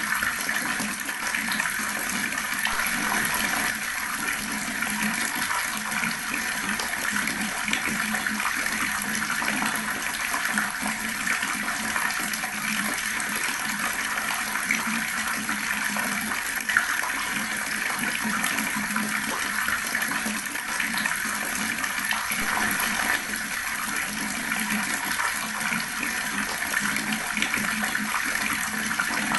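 Water running steadily from a tap, splashing without a break.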